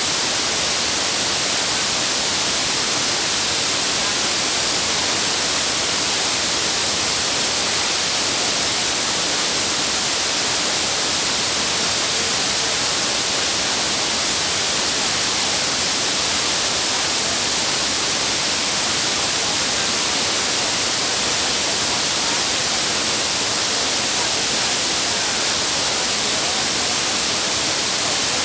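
Waterfall: a loud, steady, hissing rush of falling water.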